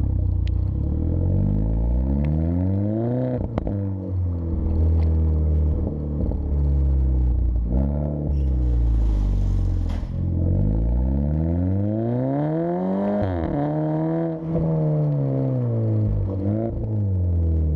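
SEAT León engine revving through a cat-back exhaust with a Borla muffler: three rises in pitch that fall back each time, the last the longest, over a low rumble. A brief hiss comes about halfway through.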